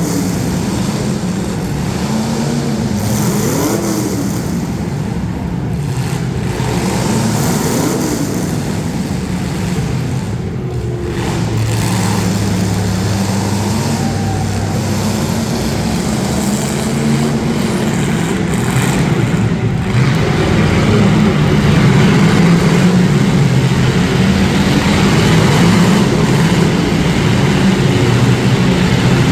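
Demolition derby street stock cars' engines running and revving, the pitch rising and falling over and over, louder from about two-thirds of the way in.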